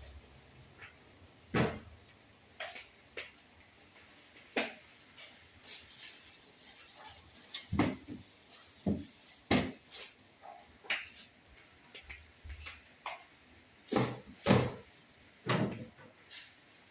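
A string of irregular knocks and clacks, about fifteen to twenty of them, as things are handled and set down while a refrigerator is cleaned: shelves, drawers and containers bumping in place.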